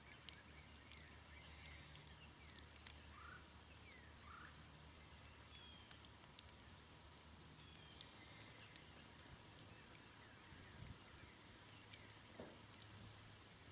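Faint crackle of a smoldering campfire: sparse small pops and ticks, with a few faint bird chirps and a low steady hum in the background.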